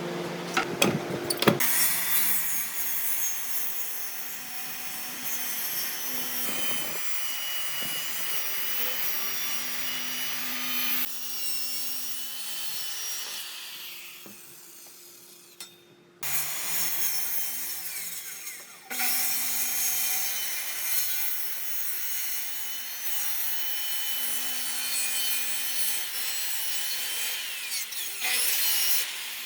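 Power tool working wood: a rough scraping noise over a steady motor hum, which cuts off and restarts abruptly several times.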